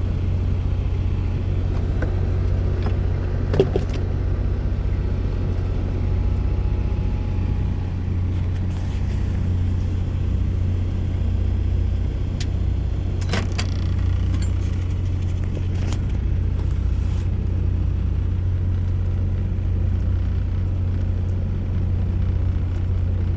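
Microwave oven running as it heats a bowl of food: a steady low hum, with a few brief clicks and knocks about three and a half and thirteen seconds in.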